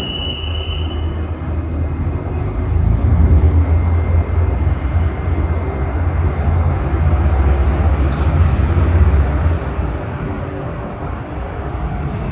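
Diesel train running past with a heavy low engine rumble and general rail noise; the deep rumble drops away about nine and a half seconds in.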